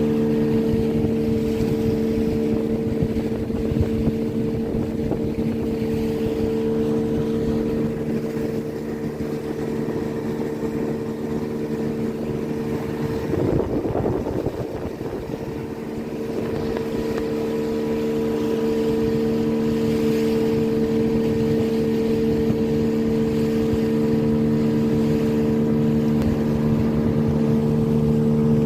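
Motorboat engine running steadily at an even speed, with a brief unsteady patch about halfway through.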